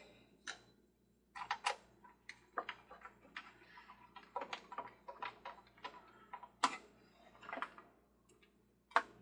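Irregular sharp clicks and light knocks of the Ferris wheel's metal arms and plastic base being handled and fitted together, with a louder knock near the end.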